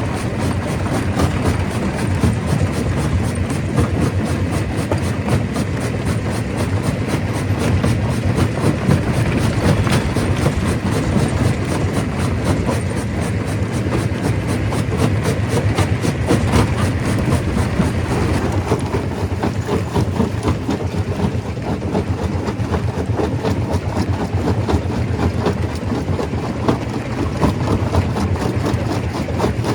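Stone crusher running and crushing rock: a loud, steady heavy-machinery rumble with a dense, rapid rattle of stone impacts throughout, the hiss in the upper range easing a little about two-thirds of the way through.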